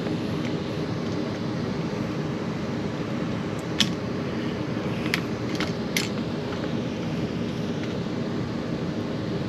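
A steady mechanical drone, with four sharp clicks in the middle: small handling clicks of tools or wiring.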